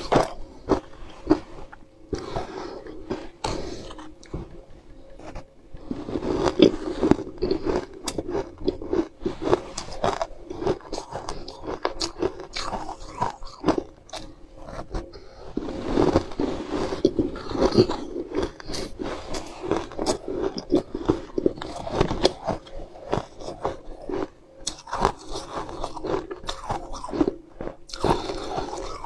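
Close-up biting and chewing of a crunchy white bar coated in green powder: irregular runs of sharp crunches with each bite, and softer chewing between.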